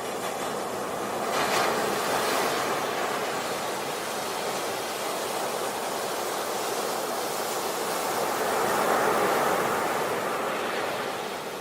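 Sea waves breaking and washing up a beach: a steady hiss of surf that swells as a wave breaks about a second and a half in and swells again near the end.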